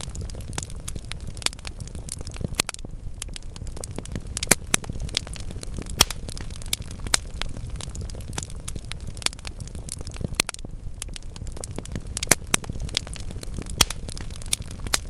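Wood fire burning in a fireplace: logs crackling with frequent sharp pops at irregular intervals over a steady low rumble of flame.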